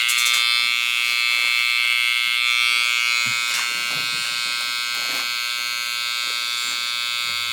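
Electric hair clippers running with a steady, high-pitched buzz.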